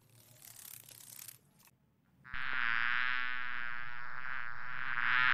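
Wasps buzzing at their paper nest: a loud, steady buzz with a clear pitch that starts abruptly a little over two seconds in, after a faint hiss.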